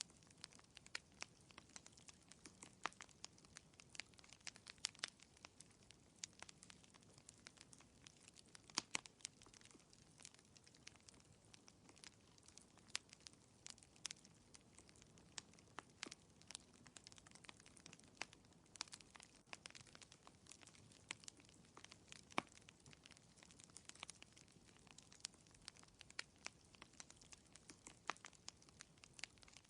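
Wood fire crackling in a fireplace: frequent irregular sharp pops and snaps over a soft low rustle of burning.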